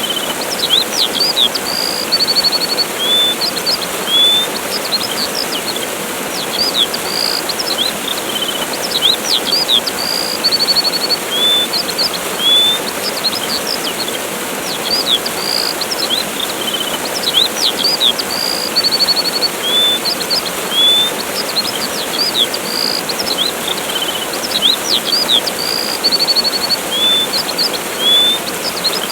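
Steady rushing of a waterfall with many short bird chirps, quick upward-sweeping calls and occasional rapid trills above it. The same sequence of calls comes round again every several seconds.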